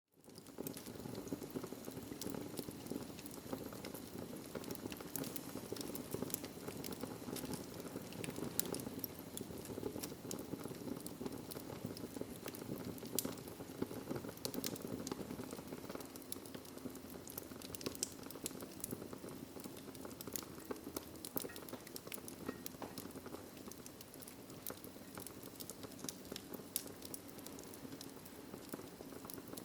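Wood fire crackling in a fireplace: a steady rush of flames with many sharp pops and snaps scattered throughout.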